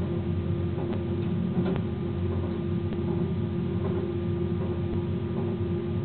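Train cab noise while running on the line: a steady locomotive drone with a constant hum, and a few faint clicks from the wheels on the track.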